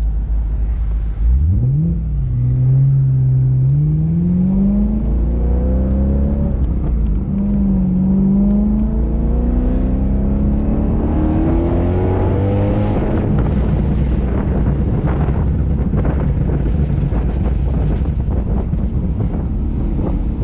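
BMW E93 M3's V8 accelerating away from a stop, the engine note climbing and then dropping back several times as it shifts up through the gears.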